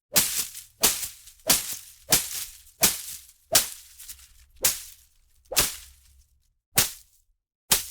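Leafy plants being struck and whipped: about ten sharp swishing hits on foliage, a little under one a second, each fading quickly.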